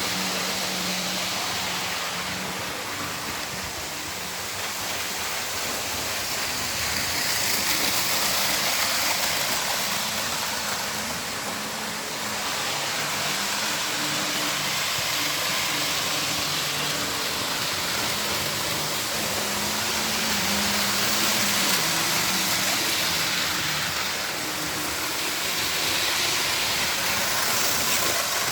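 Model trains running round a layout: a steady rushing of wheels on track with a low, wavering motor hum, swelling and fading several times as trains pass by.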